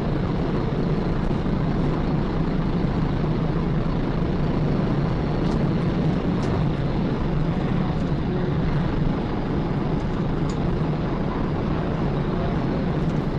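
A car driving at high speed during a police pursuit: steady engine, tyre and wind noise with a low, even hum.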